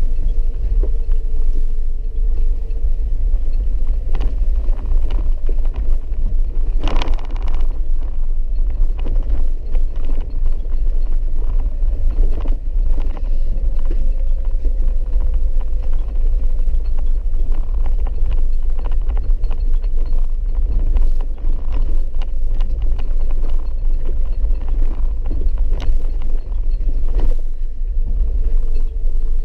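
Four-wheel-drive vehicle driving on a muddy, rutted dirt road, heard from inside the cabin: a steady low rumble of engine and tyres with frequent knocks and jolts from the rough surface, and a louder clatter about seven seconds in.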